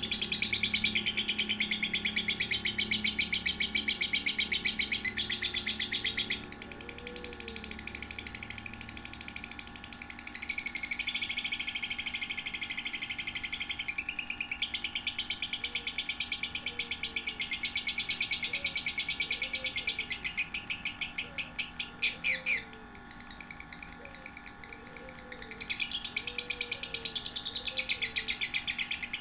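Lovebird chattering in long bouts of very rapid, high twittering trills, broken by two short pauses. A faint low call repeats about once a second underneath.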